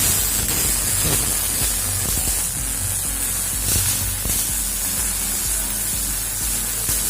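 MIG welding arc with CO2 shielding gas, a steady crackling sizzle with irregular pops, over a low electrical hum.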